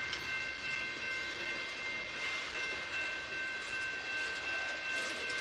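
Freight train of tank cars rolling past: a steady noise of steel wheels on the rails, with a steady high-pitched ring of a few tones held over it.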